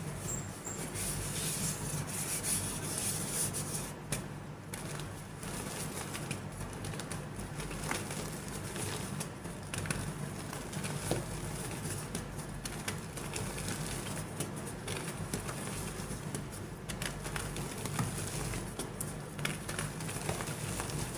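Soft gym chalk being crumbled and crushed by hand: a continuous dry, gritty crumbling and rubbing with a few small crackles.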